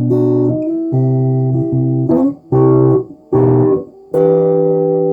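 Guitar music: a run of held chords cut by short breaks, ending on a chord that is left to ring and slowly fade.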